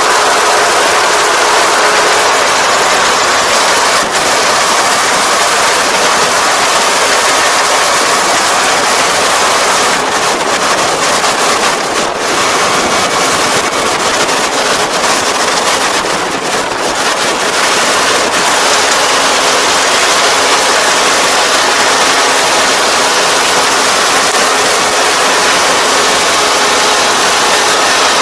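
ER470 combine harvester running steadily at close range, a dense, loud machine noise with a faint steady whine, as it harvests rice.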